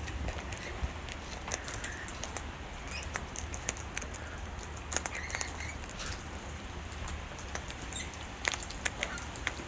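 Parrots feeding at a seed bucket: irregular light clicks and taps of beaks on seed and bucket, with a few brief soft chirps.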